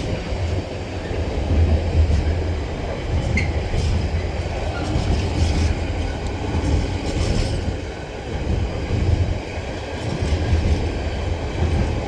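Freight train wagons rolling steadily past on the rails, a continuous heavy rumble.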